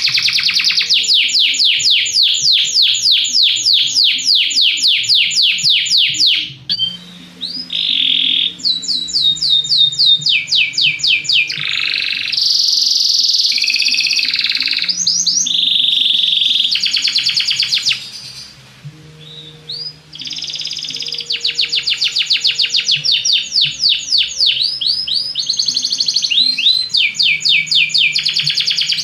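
Belgian canary singing: long, fast trills of rapidly repeated high notes, changing between varied rolling phrases, with brief pauses about seven seconds in and again after about eighteen seconds.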